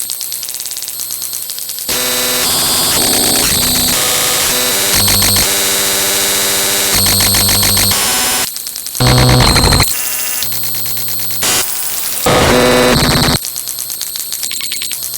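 Harsh electronic static and buzzing synthesized tones, loud, cutting abruptly from one noisy pattern to another every second or two; quieter at first and louder from about two seconds in.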